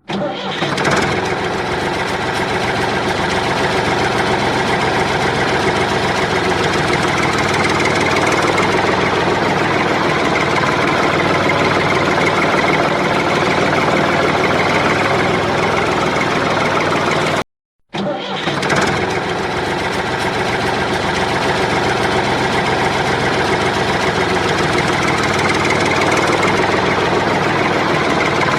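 Engine running steadily, cutting out for a moment about seventeen seconds in and starting again.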